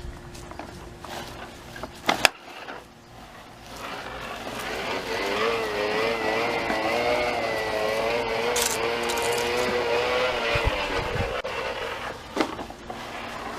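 A motor whirring for several seconds with a slowly wavering pitch, starting about four seconds in and dying away near the end, after a single click about two seconds in.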